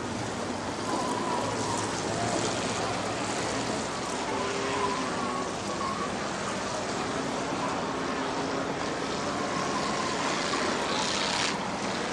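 Car engines running around the speedway: a steady wash of noise with faint wandering engine tones. A short hiss near the end.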